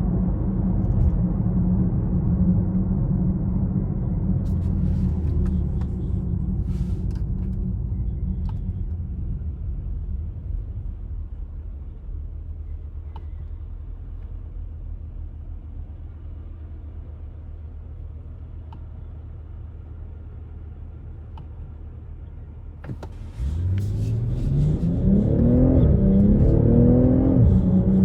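BMW X6 40i's turbocharged 3.0-litre inline-six engine: a steady low drone while cruising that fades quieter in the middle, then, about 23 seconds in, a hard acceleration with the engine note rising sharply in pitch, climbing again after each upshift near the end.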